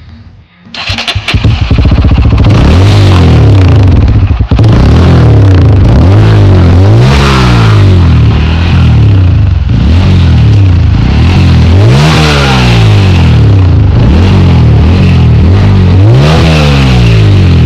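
Bajaj Pulsar motorcycle's single-cylinder engine running loudly and being revved up and back down about four times.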